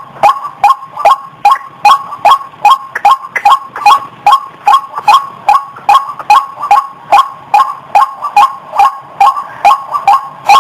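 White-breasted waterhen (ruak-ruak) calling, a loud repeated 'kru-ak' note given about twice a second in a steady, monotonous rhythm.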